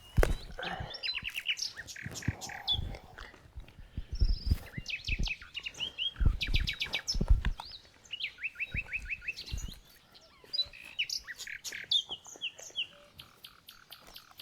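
Small birds singing, with several trills of quickly repeated notes and scattered chirps. Intermittent low knocks and thuds, loudest in the first ten seconds, sound underneath.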